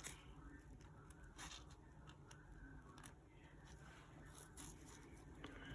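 Near silence: room tone, with a few faint clicks.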